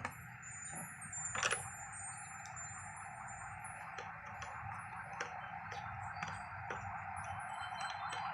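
Light clicks and taps from the electric kettle's switch parts being handled, one sharper click about a second and a half in, over a steady buzzing background.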